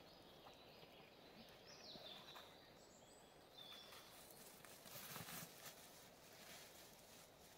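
Near silence with faint bird calls: a few short, high chirps and whistles. A faint, brief rustle about five seconds in.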